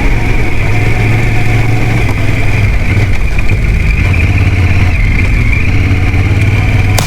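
Motorcycle engine running steadily, holding an even pitch without revving.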